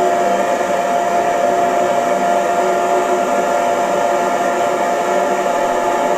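Hair dryer running steadily: an even rushing of air with a constant motor whine.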